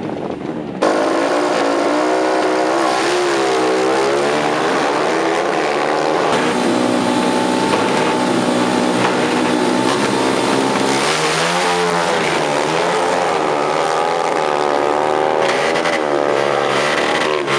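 Racing motorcycle engine being revved hard again and again, its pitch rising and falling, starting abruptly about a second in.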